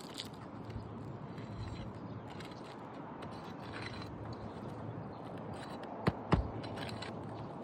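Scraping and handling noise from work on asphalt roof shingles, with two sharp knocks about six seconds in.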